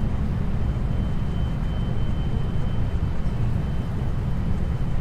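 Running noise heard inside a 521-series electric multiple unit's motor car (KuMoHa 521-24): a steady low rumble of wheels on rail, with a faint steady high tone above it.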